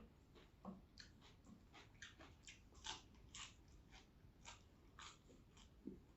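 Faint close-up chewing: a person eating vegetables and rice, with a run of soft, crunchy clicks, roughly two to three a second.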